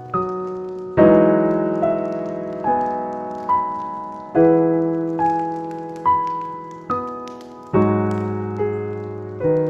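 Slow, gentle piano music: single notes struck about once a second and left to fade, with a fuller chord every few seconds.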